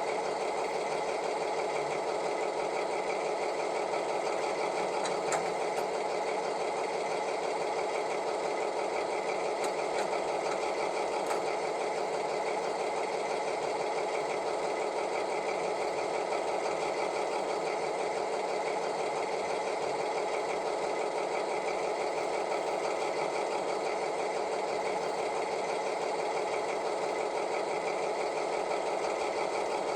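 Sound decoder of an ESU H0 model DR class 110 diesel locomotive, playing a steady diesel engine sound through the model's small speaker. It is thin, with almost no deep bass.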